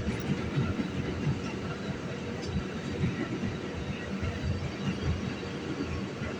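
Inside an R211A New York City subway car running between stations: a steady rumble of wheels on the track, with many irregular low knocks.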